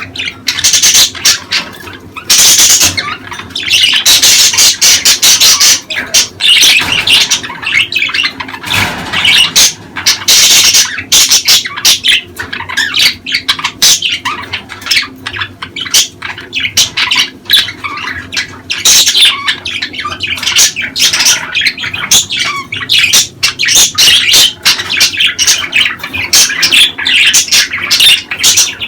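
Budgerigars chattering and squawking in a dense, unbroken run of short, rapid chirps and warbles.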